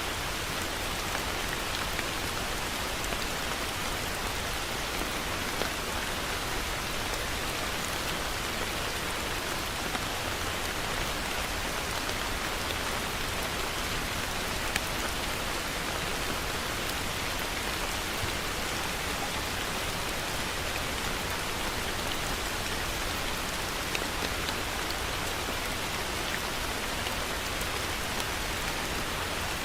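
Heavy rain falling steadily, a dense even hiss of drops with occasional sharper single drop hits.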